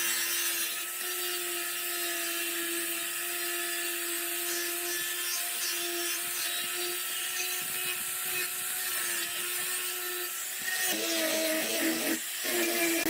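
A small electric power tool running steadily on wood, its motor giving a constant hum over a gritty cutting or sanding noise. About eleven seconds in, the sound turns rougher and louder, with two brief drops, as the tool is worked against the wood.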